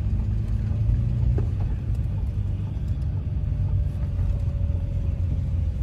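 Mercedes 190E 2.6's straight-six engine running as the car rolls slowly, heard from inside the cabin as a steady low rumble.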